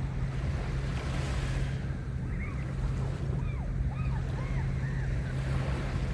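Small waves washing onto a sandy beach, the hiss swelling about a second in and again near the end, over a steady low rumble of wind on the microphone. A few faint short high calls sound in the middle.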